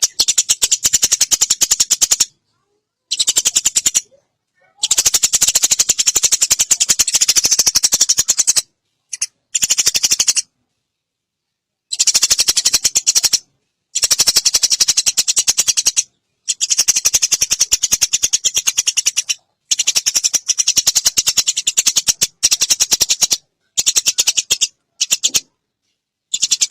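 A songbird's fast rattling trills, repeated in loud phrases of one to four seconds, high-pitched. The phrases are separated by gaps of complete silence, as in an edited recording.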